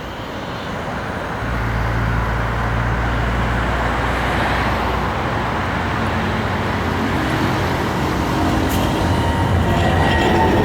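Road traffic running steadily, with a heavy vehicle's low hum setting in about a second and a half in. The noise grows a little louder toward the end, where thin high squealing tones begin.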